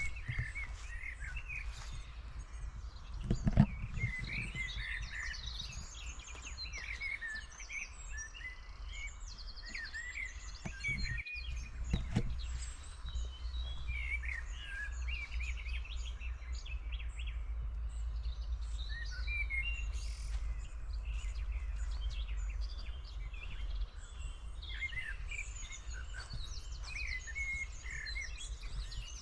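Small forest birds chirping and calling throughout in many short, high notes, over a steady low rumble, with a couple of dull thumps about three and a half seconds and twelve seconds in.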